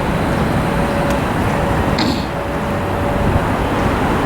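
Steady outdoor vehicle rumble, with a faint steady whine through the first three seconds and a short hiss about two seconds in.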